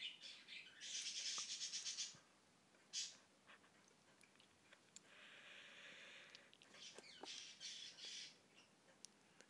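A budgie being preened by hand: soft scratchy rustling of fingers through its feathers in short rapid bursts, with a few brief faint bird chirps near the end.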